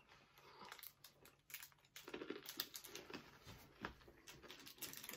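Faint chewing and crunching of a hard peanut nougat bar: scattered small cracks and clicks.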